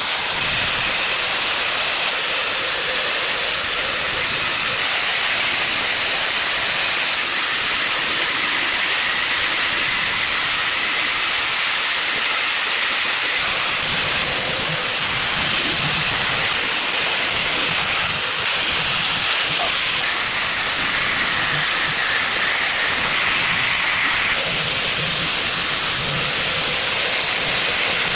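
A loud, steady hiss that does not let up.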